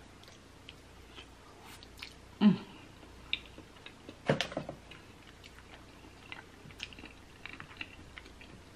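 Close-miked chewing of a mouthful of noodles in creamy Alfredo sauce: soft wet mouth clicks and smacks, loudest about two and a half and four seconds in.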